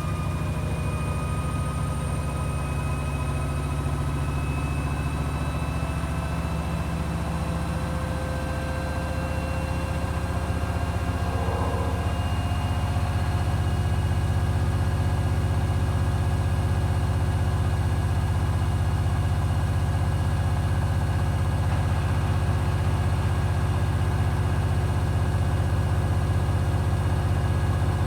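Hoover HW411AMC washing machine spinning on its final spin: the motor whine and drum hum rise slowly in pitch as the drum speeds up, getting louder about halfway through, then run steadily at high speed.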